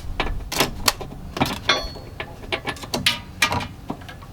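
Irregular metal clicks and clinks, one with a brief ring, as hitch hardware and the fish-wire bolt puller are handled and worked into the frame.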